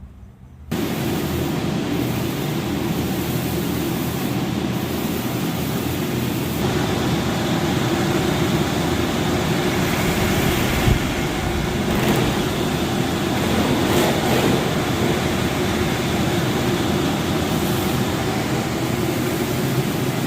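Daesung Hi-one industrial portable air conditioner running: a loud, steady rush of blowing air over a low hum, cutting in abruptly less than a second in.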